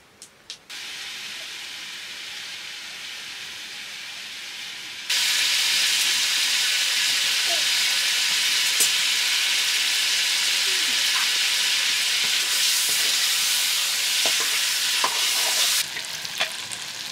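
Food frying in hot oil in a pan, a steady sizzle that jumps much louder about five seconds in and drops back near the end, with a few sharp clinks of a utensil toward the end.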